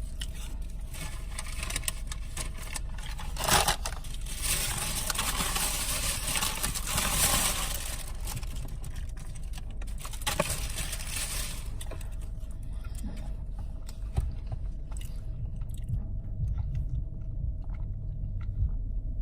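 Eating and handling food packaging, with crunching and rustling: a sharp rustle about three and a half seconds in, a longer rustle from about four to eight seconds in, another near ten seconds. Under it is a steady low hum.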